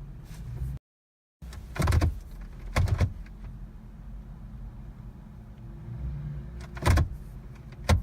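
A few short clunks and knocks inside a Jeep's cabin, two in the first half and two near the end, over a steady low hum. The sound drops out completely for about half a second about a second in.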